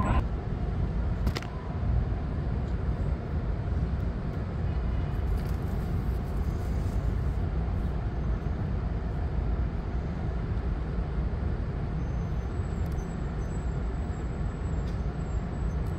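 Steady low vehicle rumble that holds evenly throughout.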